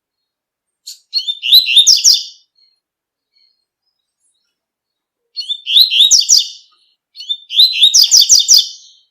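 Double-collared seedeater (coleiro) singing its tui-tui song: three phrases of quick, high chirping notes, each about a second and a half long, the first about a second in and the other two close together near the end.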